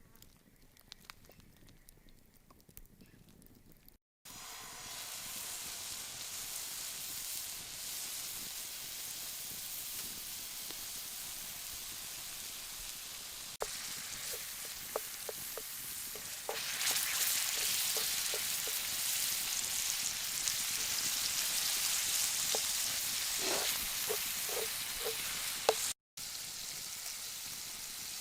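Food sizzling as it fries in a pan, with small taps of a utensil stirring it; the sizzle gets louder a little past halfway. It starts after a few seconds of near quiet with faint clicks, cutting in suddenly.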